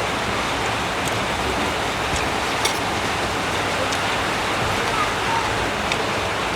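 Heavy rain pouring steadily, an even hiss with a few sharper drip ticks.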